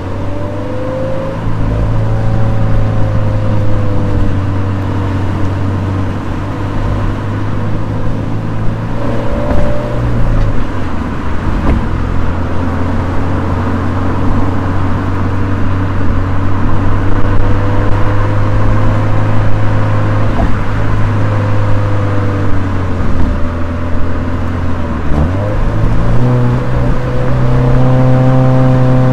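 Toyota 86's 2.0-litre flat-four boxer engine running under driving load, its note rising and falling with the throttle. The sound dips briefly about ten seconds in and again near 25 seconds, after which the engine runs at higher revs.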